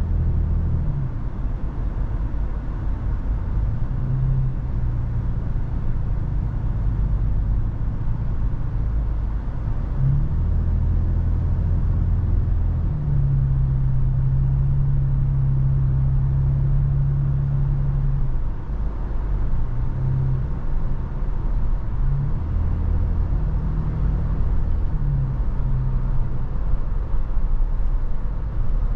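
Toyota FJ Cruiser's 4.0-litre V6 driving at road speed: a steady low rumble of engine and road noise. An engine drone fades in and out, shifting a little in pitch; it is strongest from about 13 to 18 seconds in.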